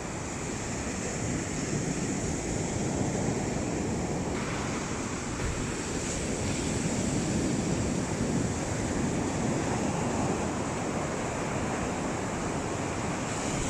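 Sea waves washing and breaking on a beach in a steady, continuous wash, with wind buffeting the microphone.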